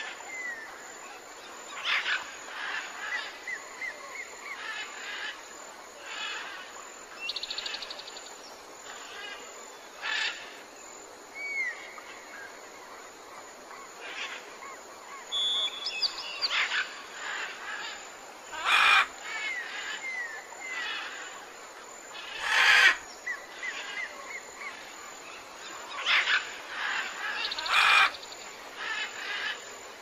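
Several birds calling: a run of short chirps and whistled notes that glide in pitch, with a few louder, sharper calls in the second half.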